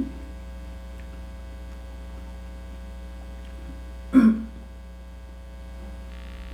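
Steady low electrical hum, with one short vocal sound from an eater about four seconds in, like a hiccup or an appreciative 'mm'.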